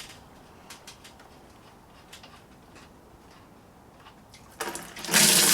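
A few faint ticks and taps, then about five seconds in engine coolant starts gushing steadily from the tractor's opened radiator drain into a bucket.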